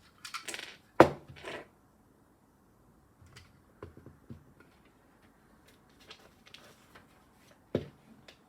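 Loose plastic Lego pieces clicking and clattering as a hand sifts through a pile of small parts, with a sharp click about a second in and another near the end.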